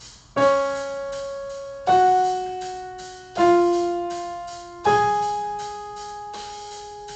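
Piano playing a slow four-note pattern: each note is struck, held and dies away, about a second and a half apart. A faint steady ticking beat runs underneath.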